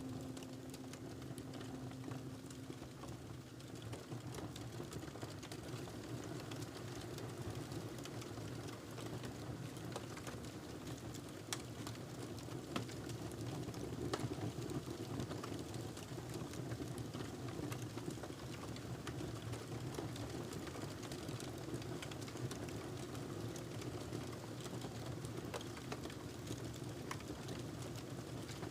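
Wood fire crackling: scattered sharp pops and snaps over a steady soft hiss and low rumble. A held music note fades out in the first few seconds.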